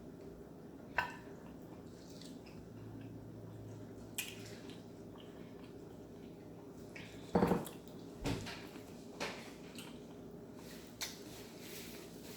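Close-up eating sounds from a mukbang of shrimp: scattered clicks, taps and mouth noises of chewing and handling food. Two louder knocks come about seven and eight seconds in.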